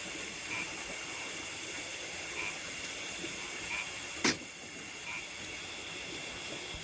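Chorus of nocturnal rice-field insects: a steady high-pitched shrilling, with a short chirp repeating about every second and a half. A single sharp click about four seconds in.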